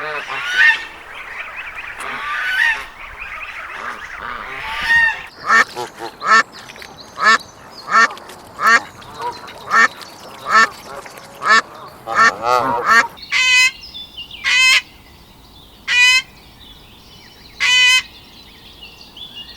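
Geese honking. A busier jumble of calls comes first, then a steady run of short, nasal honks, about one to two a second. After a change of recording near the end of the first two-thirds, the honks are spaced about a second or more apart.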